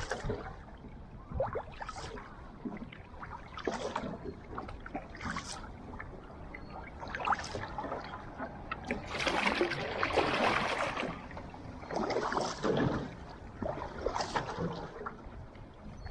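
Outrigger canoe paddles splashing into the water in repeated strokes about every two seconds, with a longer, louder rush of water about two thirds of the way through.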